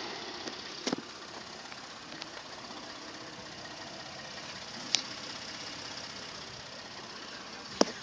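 Ford F-150's 3.5 L EcoBoost twin-turbo V6 idling steadily, with a couple of short clicks about one second in and about five seconds in.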